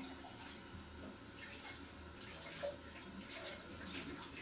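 Tap water running steadily while a new coffee machine part is rinsed under it, with a few small knocks.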